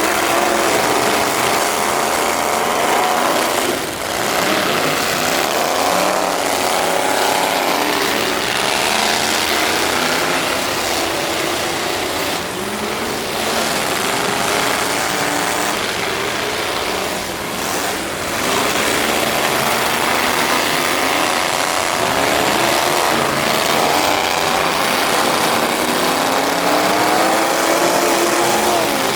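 Several truck engines running and revving hard, their pitch rising and falling over and over against a steady, noisy din.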